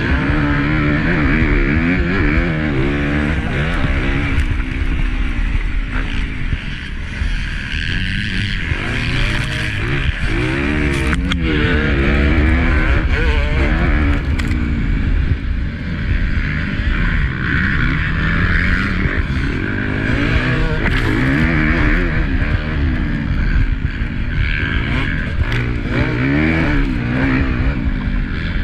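Honda CRF250 motocross bike's four-stroke single-cylinder engine being ridden hard, its pitch repeatedly rising and falling as the throttle is opened and shut through gear changes.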